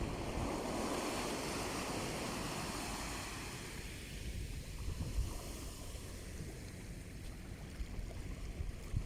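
Mediterranean sea waves washing ashore, a fuller wash over the first few seconds that then eases back, with low wind rumble on the microphone.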